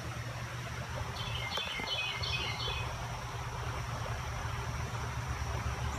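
A bird singing a quick run of short, high chirps from about one to three seconds in, over a steady low rumble.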